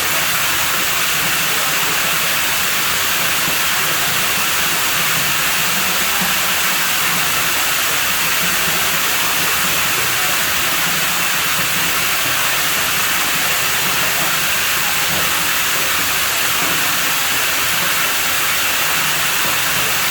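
Running water at a pool villa: a steady, unbroken rush and hiss of flowing water.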